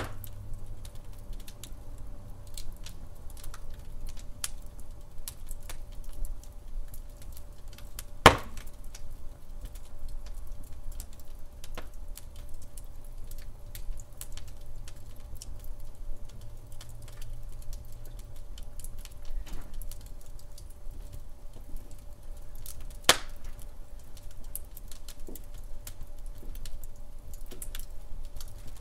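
Wood fire burning in a fireplace, crackling with many small snaps over a low rumble of flames. Two much louder pops stand out, about fifteen seconds apart.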